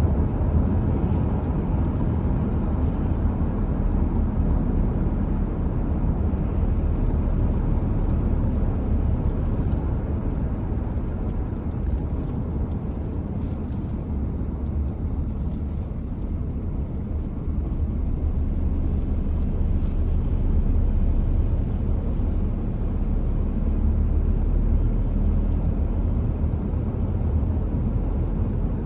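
A car driving at a steady speed: a constant low rumble of tyres and engine on the road, swelling and easing slightly.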